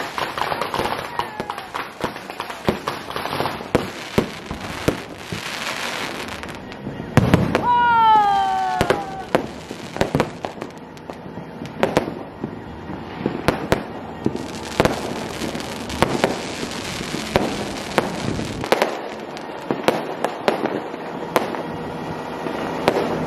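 Aerial fireworks bursting overhead: a steady run of sharp, irregular bangs and crackles, with a high tone sliding down about eight seconds in.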